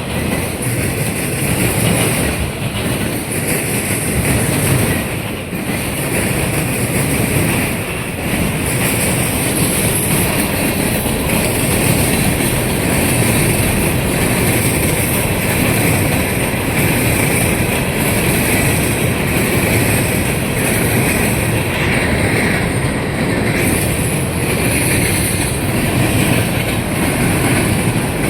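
A CSX freight train of autorack cars rolling steadily past, its steel wheels clattering over the diamond crossings.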